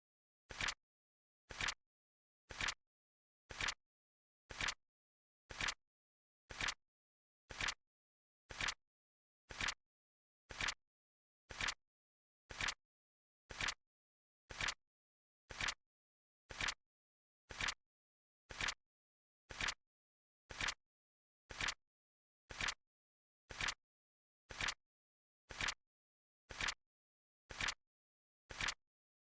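Flip clock timer sound effect: short sharp clicks, evenly spaced at about one a second, counting off the seconds.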